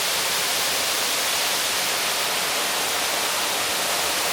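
Waterfall pouring close by, a steady, even rush of falling water.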